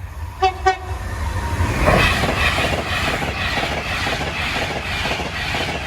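Class 390 Pendolino electric train passing at speed. About two seconds in, a loud rush of wheels and air sets in, with a regular beat as its wheels cross the rail joints.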